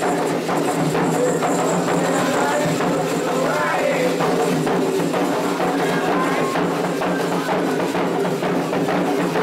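Candomblé ceremonial music: steady fast drumming and rattling percussion with voices singing a chant over it.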